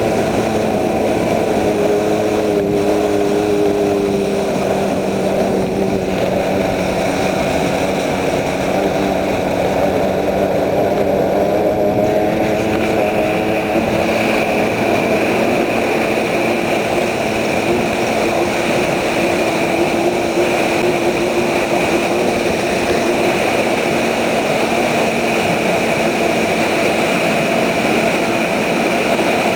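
Thundercat racing inflatable's outboard engine running steadily at speed, its pitch wavering slightly, over a continuous rushing noise.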